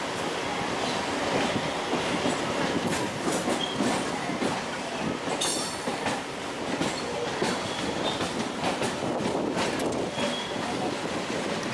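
A MEMU electric local train running along the track, a steady rumble with irregular clicks and knocks from the wheels on the rails.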